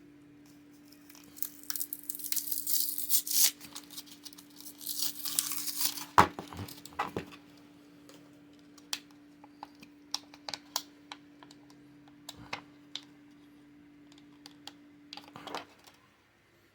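Packaging being torn open and crinkled for a few seconds, ending in a sharp snap, followed by scattered light clicks and taps as the contents are handled.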